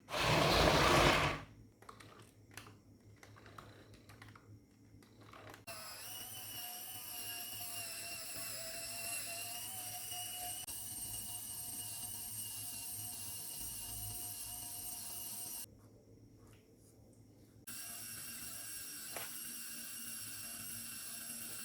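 A brief noisy burst, then a few faint clicks, then a small electric motor running with a steady whine. The motor stops for about two seconds and starts again.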